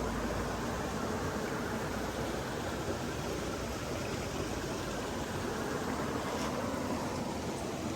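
Steady, even rushing of flowing water, with no breaks or separate splashes.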